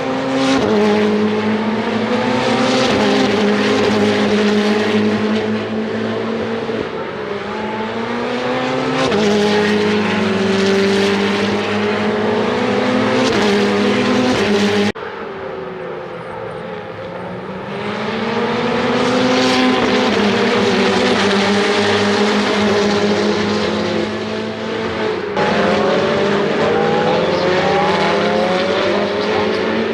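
Ferrari Challenge race cars' engines at racing speed: several cars accelerate hard, each engine's pitch climbing and falling back at the upshifts. The sound cuts off abruptly about halfway through and again near the end.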